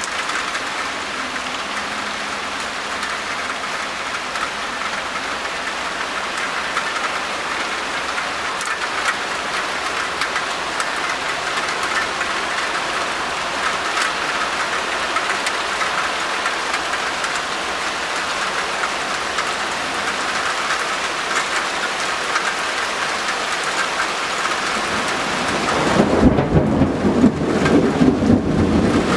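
Steady rain falling on a wet balcony and the palm trees around it. About 26 seconds in, a loud low rumble rises over the rain and becomes the loudest sound.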